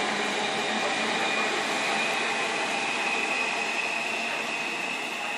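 A train running past: a steady rush of wheel-on-rail noise with a high whine that climbs slightly in pitch.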